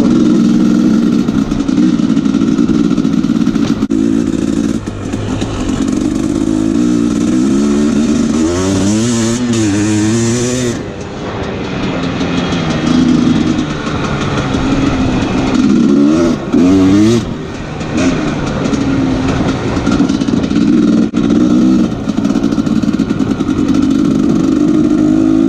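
2017 Husqvarna TE 250 two-stroke enduro engine running under load while riding, its pitch rising and falling quickly as the throttle is worked, with the sharpest revving about a third of the way through and again about two-thirds through.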